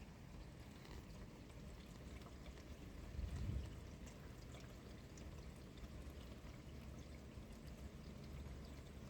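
Steady rainfall, a constant hiss with scattered drop ticks, with a brief louder low rush about three and a half seconds in.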